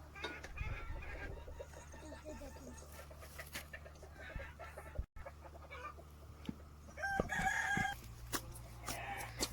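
Chickens clucking, with a rooster crowing once, loudest, about seven seconds in.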